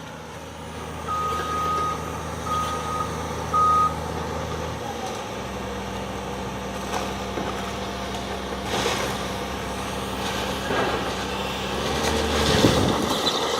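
A backup alarm on heavy demolition machinery beeps three times, the last beep shorter, over the steady running of a machine engine. The engine note shifts about five seconds in, and there are occasional knocks, with a louder one near the end.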